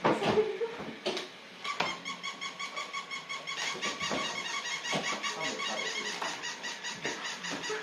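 Battery-operated toy puppies running: a steady electronic whine pulsing rapidly and evenly, about five pulses a second, for several seconds, after a few short squeaks.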